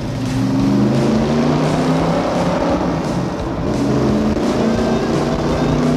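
Backdraft Racing RT4 Cobra's V8 engine and exhaust running loud at speed inside a road tunnel.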